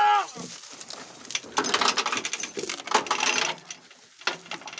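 A rooster's crow ending right at the start, then irregular rattling clatter in two bursts, about a second and a half in and again about three seconds in.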